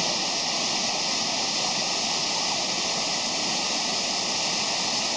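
Waterfall rushing: a steady, even roar of falling water that doesn't change.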